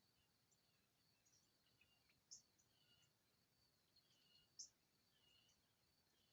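Faint songbirds chirping and calling, with two sharper high chips about two and a half and four and a half seconds in, over a faint steady high tone.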